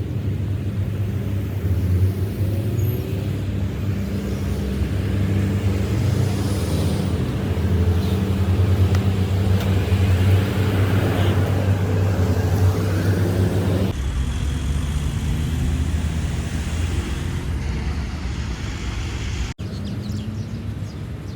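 Steady low rumble of a motor vehicle or road traffic, changing abruptly about two-thirds of the way through and again near the end.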